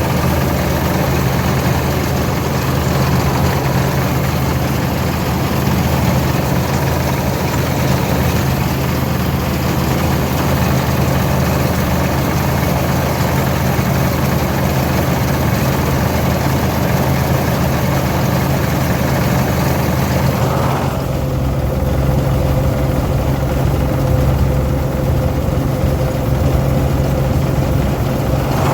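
International 460 diesel tractor engine and the International 82 pull-type combine's machinery running steadily. About 21 s in, the sound changes: the higher rattling hiss falls away and a steady hum comes in under the engine drone.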